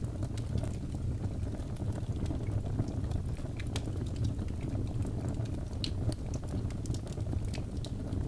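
Fire crackling in a fireplace: a steady low rumble of burning with scattered sharp pops and snaps, several a second at irregular intervals.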